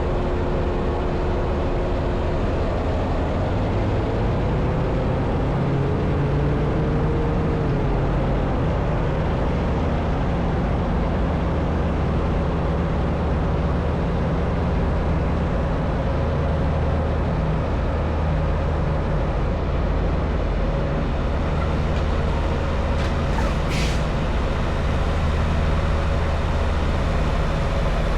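Semi-truck diesel engine running at low speed while maneuvering, rising in pitch a few seconds in and then holding steady. A couple of brief sharp sounds come near the end.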